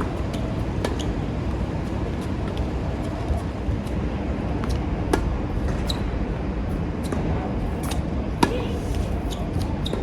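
Tennis balls struck by rackets and bouncing on the court, a string of sharp irregular pops, over a steady rumble of strong wind on the microphone.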